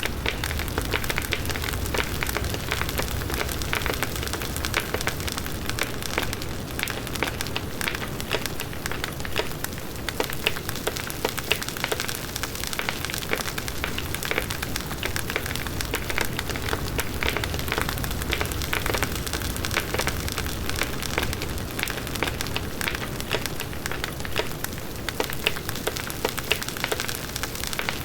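Large wood bonfire burning: a steady rush of flames with dense, continuous crackling and popping of the burning wood.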